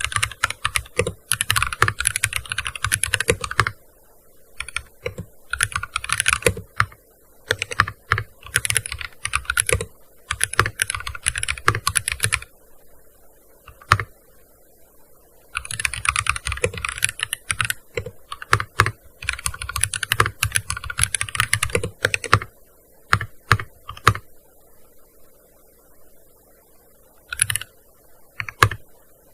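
Typing on a gaming keyboard: fast runs of keystrokes lasting a few seconds each, broken by short pauses, with only a few single key presses near the end.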